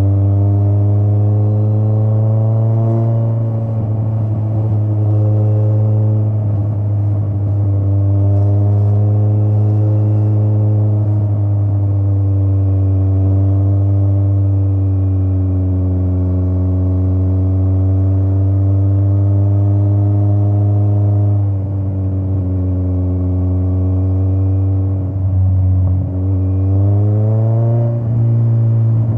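Straight-piped Kawasaki Z900 inline-four motorcycle exhaust while riding, its pitch falling and rising slowly with the throttle. It drops off briefly a couple of times late on, then rises in pitch near the end as it is revved up again.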